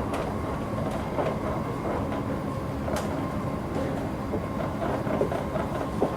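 Running noise of a 700 Series Shinkansen heard inside the car: a steady rumble of wheels on rail with faint steady motor tones and a few sharp clicks, one about three seconds in.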